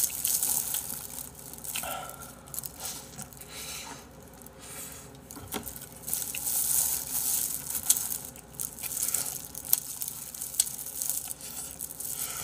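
Wet chewing and sucking on bone-in chicken feet in spicy broth: irregular smacks, slurps and small clicks from the mouth.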